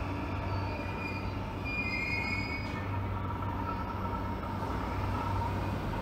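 Train running on the line: a steady rail rumble with thin high wheel squeals about half a second to two and a half seconds in.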